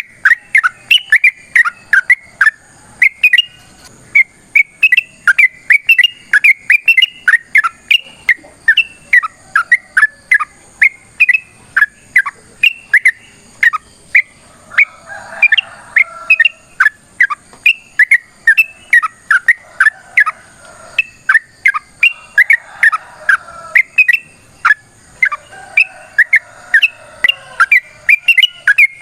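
Yellow-vented bulbul (trucukan) calling in a long fast run of short, sharp, whistled chirps, about three a second, with softer warbling phrases mixed in around the middle and near the end. This is the long, rapid, combative call that keepers use to provoke other bulbuls into answering.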